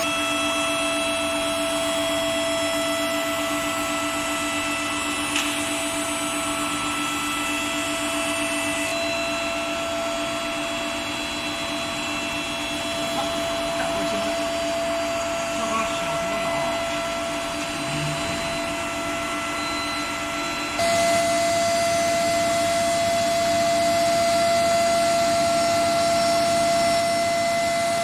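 Heat treatment furnace equipment running: a steady electrical hum with several fixed tones over a noisy rush. It steps louder about twenty-one seconds in.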